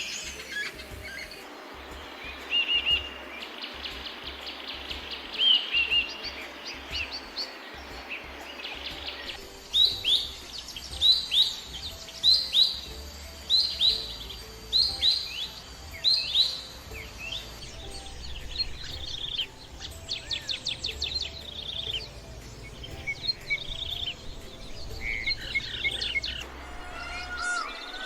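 Wild birds singing, in several spliced recordings. Chirps and short whistles come first. From about ten seconds in, one bird repeats a loud, sharp down-slurred call about once a second, followed by quicker runs of chips and trills.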